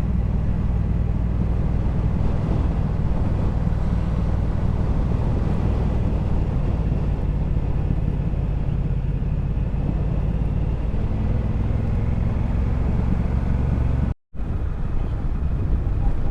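Triumph Bobber's 1200 cc parallel-twin engine running steadily while the motorcycle is ridden at a constant pace. The sound cuts out completely for a moment about two seconds before the end, then returns.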